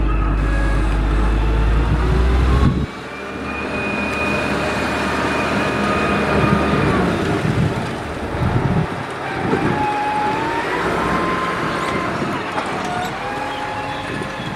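Caterpillar 140H motor grader's diesel engine working under load, with a deep rumble that cuts off abruptly about three seconds in. Whining tones then rise and fall in pitch over a rough, gritty noise.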